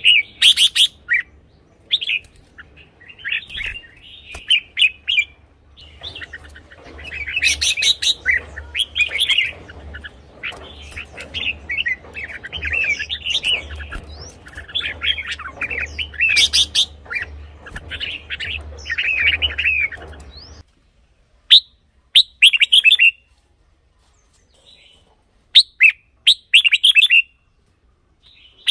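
Red-whiskered bulbul singing, a string of short, quick whistled phrases with pauses between them. A low hum and background noise under the song cut off suddenly about two-thirds of the way through, while the phrases go on.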